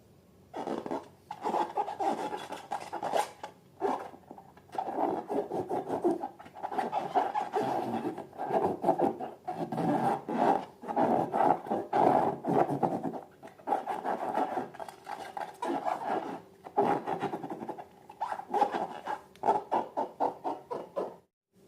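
Rubber balloons being rubbed and squeezed by hand, in irregular bursts of rubbing and squeaking that stop briefly near the end.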